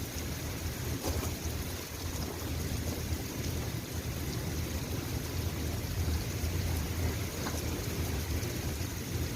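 Steady rain falling, an even hiss with a few faint drop ticks over a low, constant rumble.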